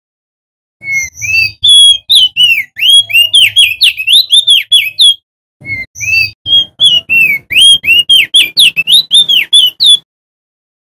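Male opior jambul singing loudly: two long phrases of rapid, sharply slurred whistled notes, several to the second, with a brief pause between them about halfway through.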